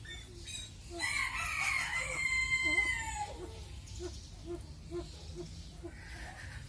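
A rooster crows once, a call of a little over two seconds that holds its pitch and then drops at the end. After it come soft, low clucks repeating about twice a second.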